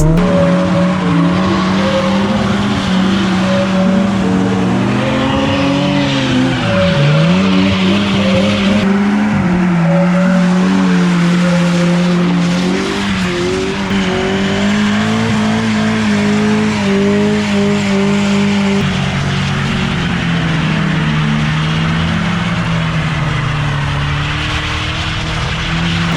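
Car engine held at high revs while drifting, the revs wavering and dipping sharply a couple of times before settling lower near the end, with skidding tyres squealing.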